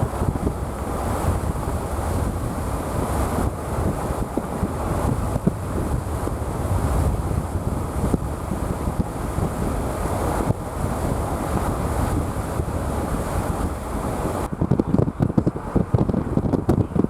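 Strong thunderstorm wind gusts buffeting the microphone in a steady, loud rush. About three seconds before the end, the hiss drops away and the buffeting turns choppier.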